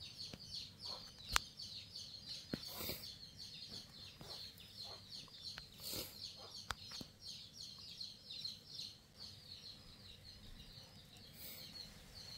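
Birds chirping continuously in the background, many short quick high chirps, with a few sharp clicks.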